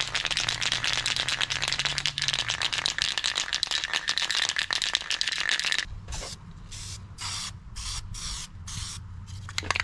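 Aerosol spray can of primer hissing steadily for about six seconds, then spitting in short spurts about twice a second as the can runs out of primer.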